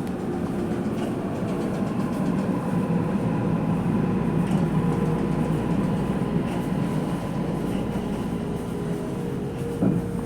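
Toei Mita Line commuter train heard from inside the car while running: a steady rumble of wheels on rail with a steady motor hum, and one brief knock near the end.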